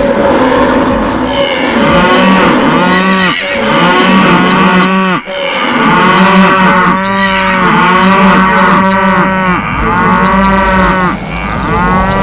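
A herd of cattle mooing, many long calls overlapping one after another, over a low steady rumble.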